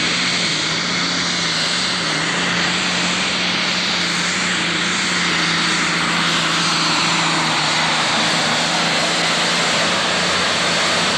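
Turbocharged super stock pulling tractor engine running flat out during a pull: a loud, steady blare that holds one pitch throughout, with a strong high-pitched hiss over it.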